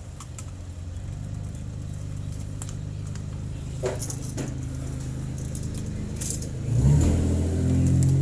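An engine running, getting gradually louder and rising sharply near the end, with a couple of light metallic clicks around the middle.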